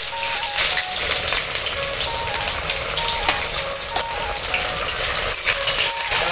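Food frying in hot oil in a large steel wok, a steady sizzle throughout. A few light clicks of a metal spatula against the plate and wok come through over it.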